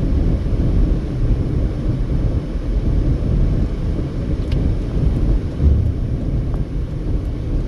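Steady low rumble of a car driving at highway speed: tyre and engine noise.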